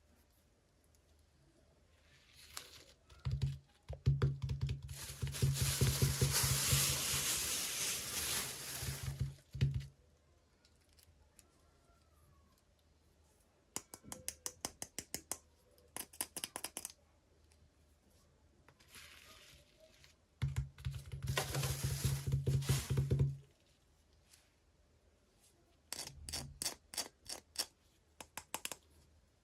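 Toy packaging being handled and opened: two long stretches of crinkling and rustling, with runs of rapid small clicks in between.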